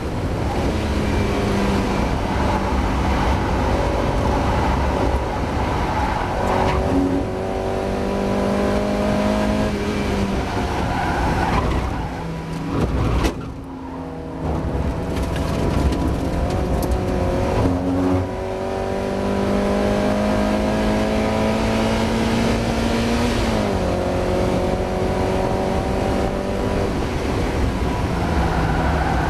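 Mazda MX-5 race car's four-cylinder engine running hard under load, its pitch climbing through each gear with several gear changes and a brief lift off the throttle about halfway through. The driver describes the car as misfiring.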